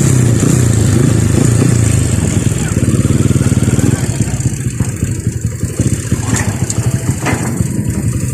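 A heavy vehicle engine running close by, its pitch rising and falling for the first few seconds as it works, then settling to a lower, pulsing run.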